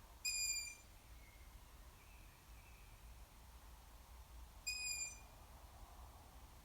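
Juvenile long-eared owl giving its high, squeaky begging call twice, each call about half a second long and about four and a half seconds apart. Fainter calls come in between.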